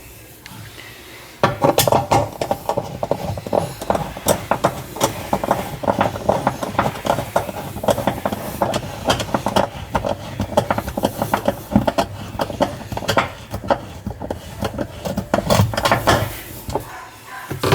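Rapid metallic clicking and clatter as the holding nut on the washing machine's pulsator (impeller) shaft is tightened down. It starts about a second and a half in and stops just before the end.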